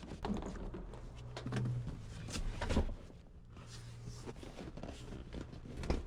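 Scattered clicks and knocks of car parts being handled and put back, with the strongest knocks about two and a half seconds in and near the end, over a faint low hum.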